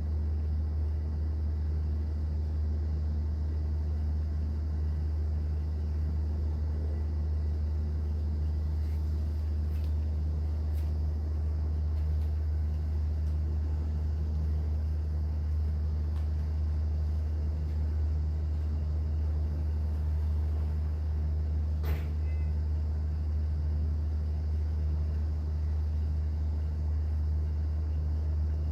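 Steady low drone of a cruise boat's engine, running evenly throughout, with a single sharp click about three-quarters of the way through.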